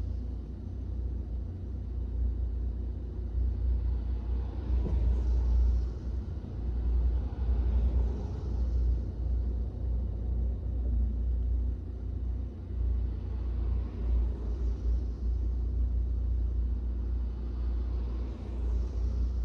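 Steady low road rumble inside a moving car's cabin on a wet road, with a few louder swishes.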